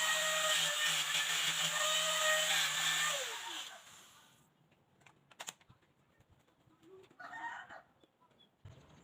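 A small electric power tool runs with a steady high whine. About three seconds in it is switched off and spins down, its pitch falling. A single faint click follows, and near the end a brief faint sound.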